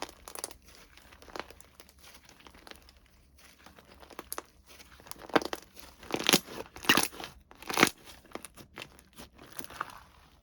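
Plastic or paper packaging crinkling and rustling as it is handled and opened, in irregular crackles with a louder flurry of crinkles partway through.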